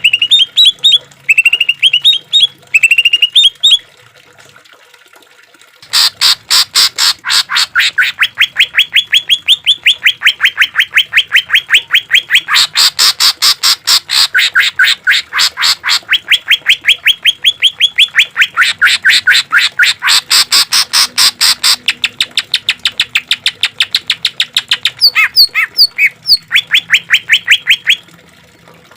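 Greater green leafbird (cucak ijo) singing: a few short rising whistled phrases, then after a pause a long run of harsh notes repeated several times a second. The run lasts about twenty seconds and stops abruptly near the end.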